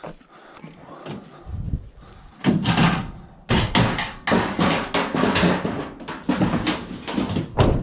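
Scrap metal being handled and loaded: a run of clattering metal knocks and bangs, with a sharp bang near the end.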